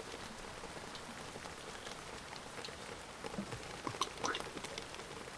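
Rain falling steadily, with scattered individual drops landing close by that come more often and louder from about three seconds in.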